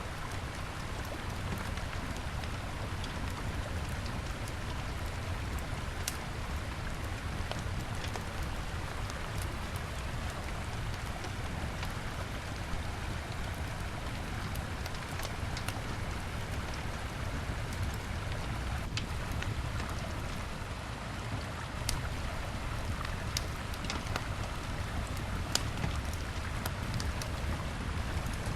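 Wood fire crackling, with scattered sharp pops every few seconds, over the steady rush of a flowing river.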